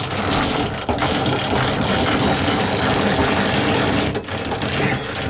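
W2-class tram's hand-wound destination roll winder being cranked: a steady, rapid ratcheting clatter of its gear mechanism as the roll is wound through the destinations, with a brief pause about four seconds in.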